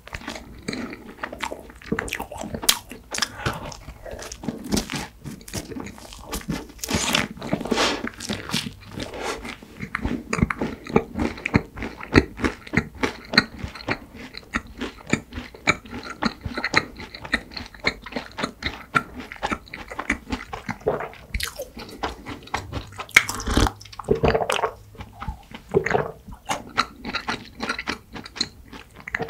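Close-miked eating of a cream-filled bread bun: one bite, then continuous crunchy, crackly chewing. It grows louder about seven seconds in and again about twenty-three seconds in.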